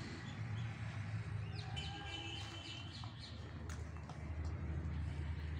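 A few faint bird chirps in the middle, over a steady low background rumble.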